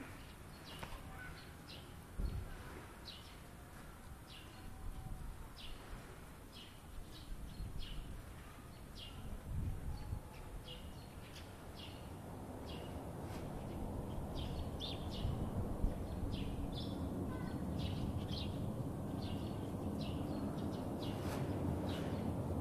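Small birds chirping with short, high, repeated calls over a low rumble of background noise that swells from about halfway through.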